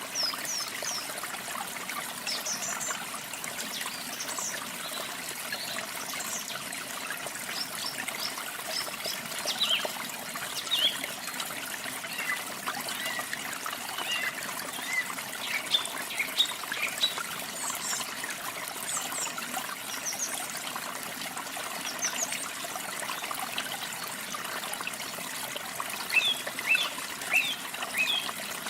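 Steady trickling and splashing of falling water, with small birds chirping and singing in short high notes over it, a busier run of chirps near the end.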